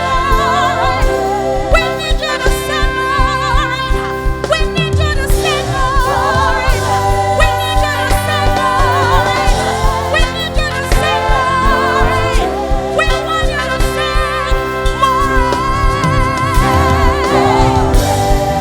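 Live gospel worship music: a band playing a steady beat under a wavering lead line with vibrato.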